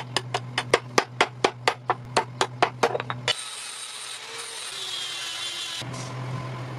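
Rapid, even hammer blows on metal, about four a second, over a steady hum. They stop about three seconds in, and a hiss runs for about two and a half seconds before the hum returns.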